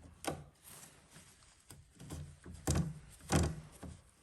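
A few dull knocks and thunks from handling at a washing machine's drain pump filter housing: one about a third of a second in, then two louder ones close together near the end.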